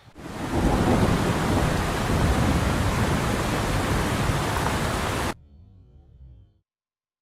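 Loud, steady rushing noise that starts at once and cuts off abruptly about five seconds in.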